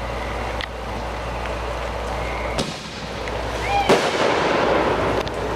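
Fireworks going off: a few sharp bangs, the loudest about four seconds in, followed by about a second of crackling.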